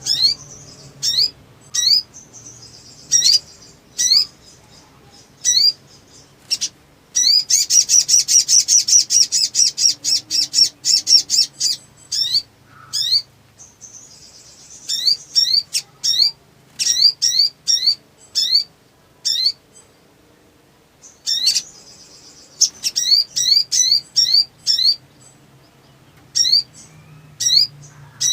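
A sunbird calling excitedly: bursts of sharp, quick rising chirps, with a fast dense trill about seven seconds in.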